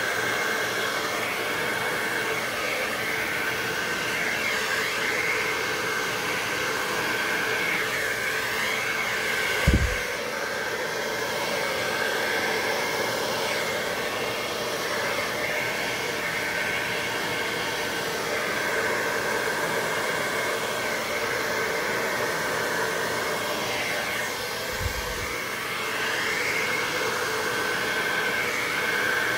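Hair dryer blowing steadily on its low setting, pushing wet pour paint across the canvas, with a faint steady whine over the rush of air. A short low thump about ten seconds in, and a smaller one near the end.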